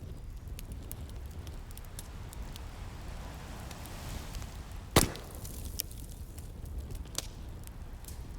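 Wood fire crackling with scattered small pops and one loud sharp pop about five seconds in, over the steady low rumble of sea waves.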